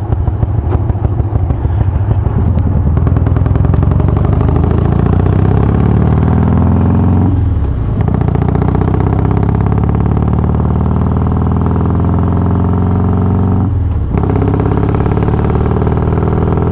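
Harley-Davidson Softail's Twin Cam 88 V-twin engine, fitted with Feuling 525 cams, pulling under acceleration while riding. Its pitch rises, dips briefly about halfway through and again late on as it shifts up a gear, then climbs again.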